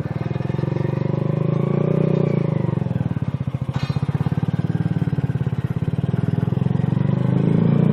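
SSR Razkull 125 pit bike's single-cylinder four-stroke engine running under load up a short incline, sounding loud, its revs swelling about two seconds in and again near the end. A brief click about three and a half seconds in.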